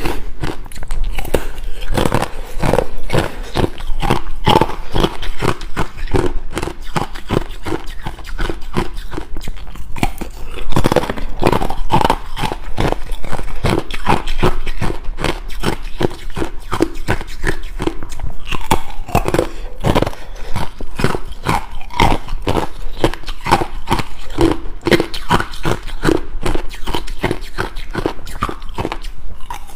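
Ice being bitten and chewed: a dense, unbroken run of loud crunches and cracks.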